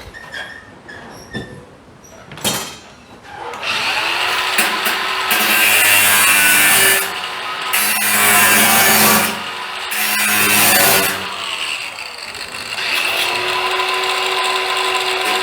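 Hand-held power tool cutting through sheet metal: a few light knocks, then about three and a half seconds in the motor spins up into a loud, steady cut with a whine, easing off briefly a few times and spinning up again near the end.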